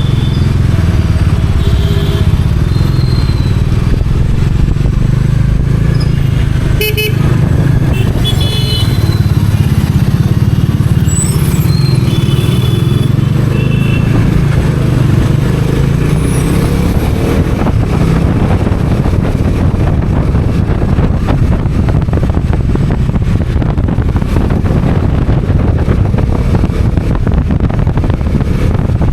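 Bajaj Dominar 400's single-cylinder engine running steadily as the motorcycle rides through city traffic, with several short horn toots in the first half. In the second half the engine sits lower under a rising rush of wind noise.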